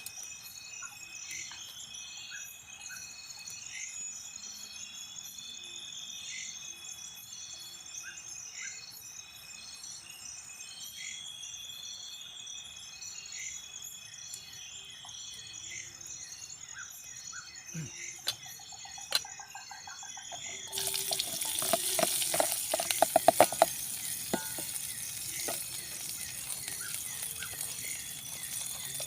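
A steady chorus of forest insects and birds calling, with a couple of sharp knocks about two-thirds of the way in. Then a few seconds of loud hissing with clatter from the camp cooking, the loudest part, before the calls carry on.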